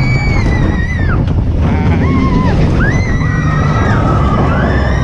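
Roller-coaster mine train rolling on its steel track with a steady rumble, its wheels squealing in several held high-pitched squeals that each rise, hold and drop away.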